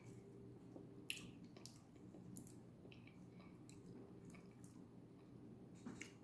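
Faint wet mouth sounds of eating eba with okra soup: scattered soft clicks and squelches, the sharpest about a second in, over a low steady hum.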